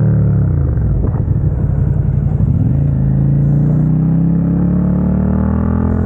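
Suzuki SV650's V-twin through a Dominator GP exhaust, heard onboard: the revs fall off for about the first second and a half, the engine runs low and choppy for about a second, then it pulls up in a steady rising drone as the bike accelerates.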